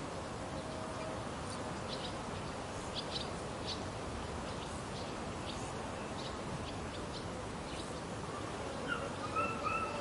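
Rural summer ambience: a steady background hiss with short, high bird chirps scattered throughout, and a louder pitched call near the end.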